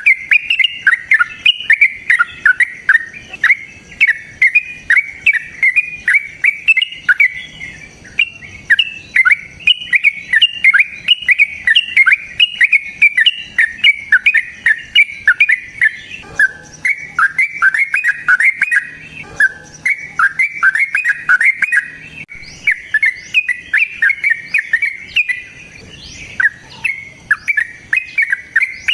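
A lovebird giving the long ngekek chatter prized in contest lovebirds: a fast, nearly unbroken string of sharp, high chirps, about four to five a second, with a few brief breaks.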